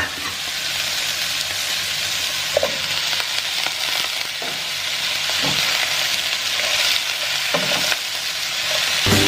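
Vegetables with shrimp and tempeh stir-frying in hot oil, a steady sizzle, with a few short knocks and scrapes of the spatula in the pan.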